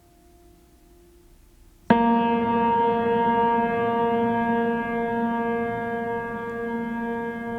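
A bell-like metal instrument is struck once about two seconds in and rings on with many steady overtones, wavering as it slowly fades. A fainter ringing tone is heard before the strike.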